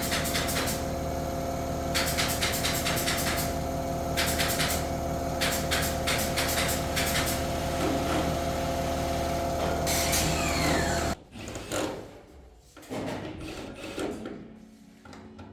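A power tool running with a steady hum, broken by several bursts of rapid clicking. It cuts off abruptly about eleven seconds in, leaving a few faint knocks.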